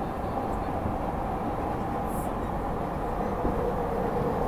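Steady running noise inside a moving Tokyu Oimachi line commuter train: a rumble of wheels on the rails with a drone underneath. There is a brief faint high hiss about two seconds in.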